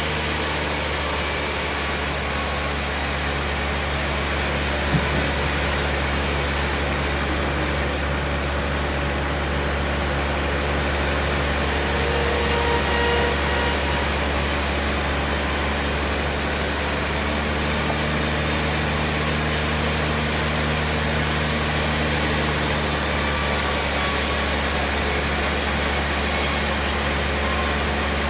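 Band sawmill machinery running steadily: a continuous low hum with one short knock about five seconds in.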